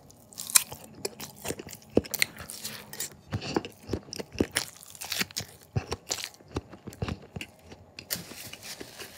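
Close-miked chewing of a slice of Spam topped with chopped bird's-eye chilies: irregular wet smacks and mouth clicks, several a second. Near the end they give way to a breathy hiss as he blows out through pursed lips.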